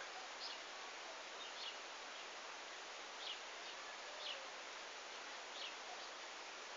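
Quiet outdoor ambience: a steady hiss with five or six faint, short high chirps scattered about a second apart.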